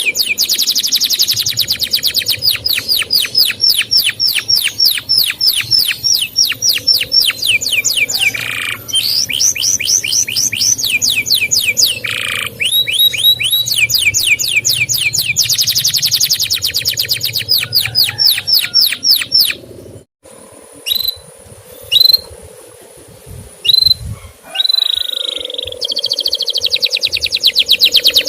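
Canary singing a long, rapid trill of repeated downward-sweeping 'cuit' chirps, about eight a second. About twenty seconds in the song breaks off suddenly into a few separate chirps, then the rapid trill starts again near the end.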